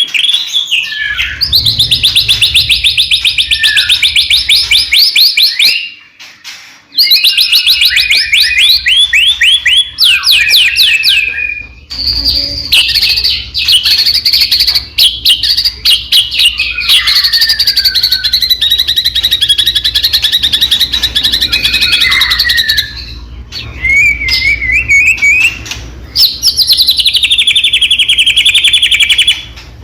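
White-rumped shama (murai batu) singing loudly in long runs of fast repeated notes and trills, with short pauses about six and twelve seconds in. A low hum sits underneath the song.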